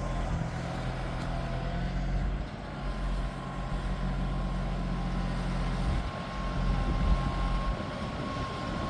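Farm tractor engine running steadily as it clears snow with a pusher blade.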